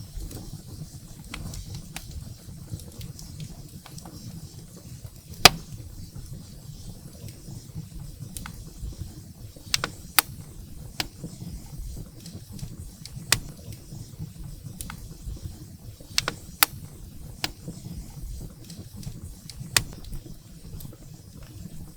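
Firewood burning in a fireplace, crackling with irregular sharp pops over a low steady rumble of the flames. The loudest pop comes about five and a half seconds in.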